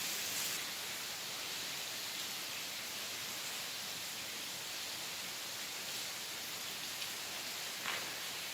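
Heavy rain falling steadily, an even hiss with no single drops standing out.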